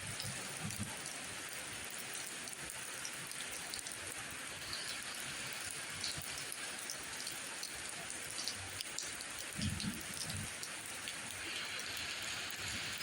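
Steady rain falling, with scattered louder individual drops and a brief low rumble about ten seconds in.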